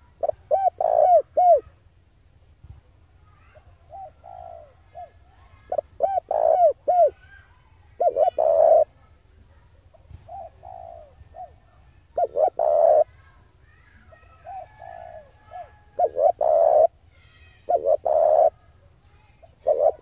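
Male spotted dove cooing: repeated phrases of several short coos, one phrase every one to two seconds.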